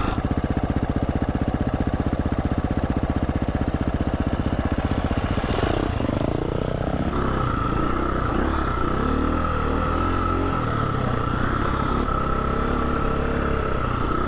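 Husqvarna 350 FE's single-cylinder four-stroke engine running under way on a trail, steady at first, then the revs drop and pick back up about six seconds in and keep rising and falling with the throttle.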